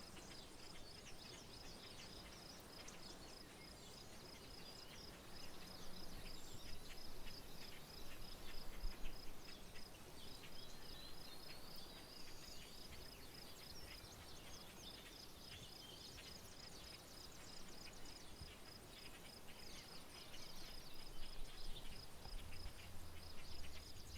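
Rural outdoor ambience: birds calling and chirping on and off over a faint steady hiss, with a high, evenly repeating chirp running throughout. A low rumble comes in near the end.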